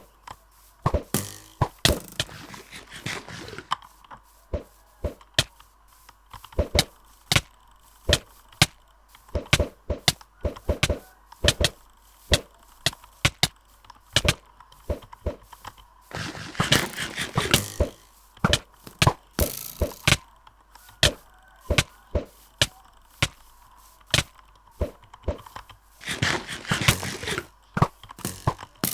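A series of sharp clicks at irregular intervals, some coming in quick clusters, with a few brief stretches of noisy rustle between them.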